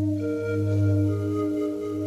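Sound-bath music: sustained, ringing singing bowl tones over a steady low drone. Held notes come in just after the start and again about a second later, the second a little lower in pitch.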